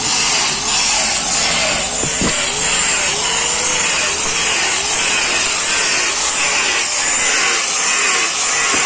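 Angle grinder grinding the steel blades of a wheat thresher, its sound rising and falling in steady repeated strokes as it is worked back and forth along the edge.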